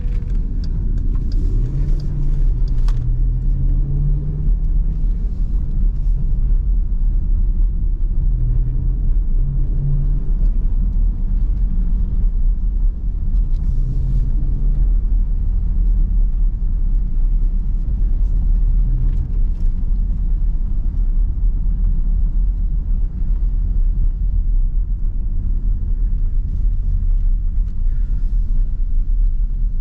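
V8 car engine and road rumble while driving. The engine note rises about a second in and swells briefly a few more times over the next dozen seconds.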